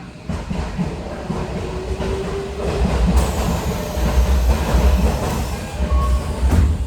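Running noise heard inside a Tokyo Metro 18000-series electric train at speed: a steady low rumble of wheels on rail with a few knocks over rail joints, getting louder a few seconds in.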